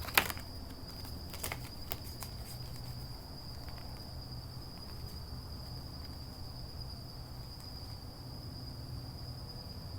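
Steady high-pitched insect trill over a low hum, with a few sharp clicks in the first two seconds.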